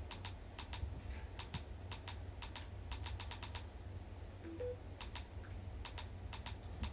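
Typing on a computer keyboard: irregular runs of quick key clicks, several a second, with short pauses between runs.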